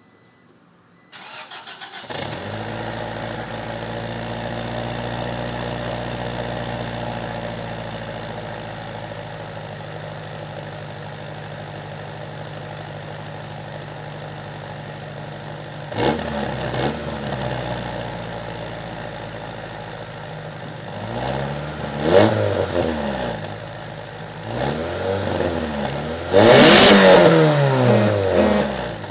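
1996 Acura Integra LS's 1.8-litre four-cylinder cold-starting about a second in through a GReddy Ti-C cat-back exhaust with its silencer fitted, which keeps the note low. It settles into a steady fast idle that eases down slightly, then is revved several times, the biggest rev near the end.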